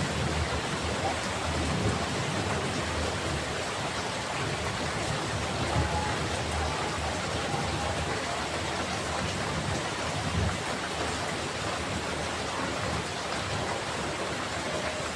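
Steady heavy rain pouring down, with low rumbles of thunder swelling up a few times, about 2, 6 and 10 seconds in.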